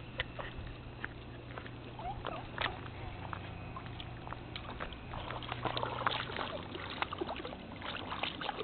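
Pool water sloshing and lapping with small irregular splashes as dogs paw and shift about on the pool's shallow step, over a steady low hum that fades about halfway through.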